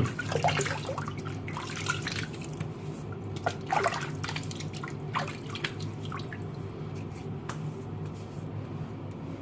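Water splashing and dripping at a bathroom sink as a face is wetted with the hands before a shave, in irregular splashes over a steady low hum.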